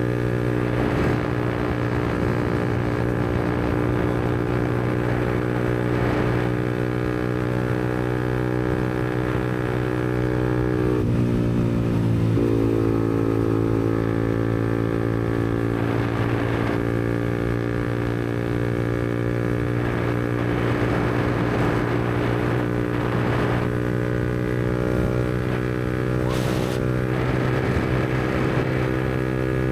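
2022 Yamaha MT-125's single-cylinder four-stroke engine through a Black Widow aftermarket exhaust, running steadily while cruising. Its note dips briefly about eleven seconds in, then steadies again.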